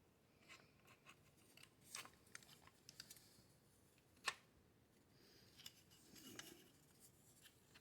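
Faint, scattered clicks and brief scrapes of rifle parts being handled and pushed into place on an AR-15 upper receiver, with one sharper click about four seconds in.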